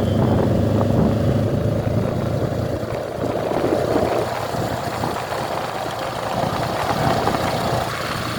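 Motorcycle engines running steadily, with several bikes riding together.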